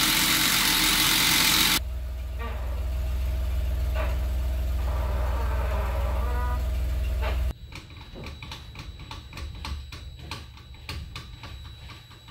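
A loud rushing noise for about two seconds, then the Jeep Wrangler JKU's engine running steadily until it cuts off abruptly about seven and a half seconds in. Scattered clicks and knocks follow.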